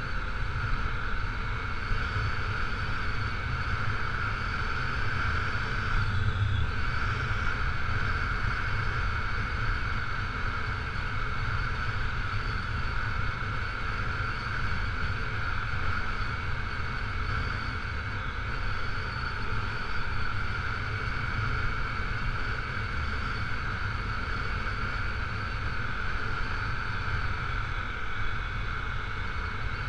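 Honda CRF250L dual-sport motorcycle's single-cylinder engine running at a steady cruise on a gravel road, a continuous low rumble with no rev changes.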